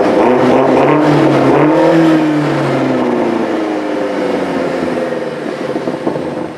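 BMW M8 Competition's 4.4-litre twin-turbo V8 revving through its exhaust: a loud onset, the pitch rising to about two seconds in, then falling away as the revs drop.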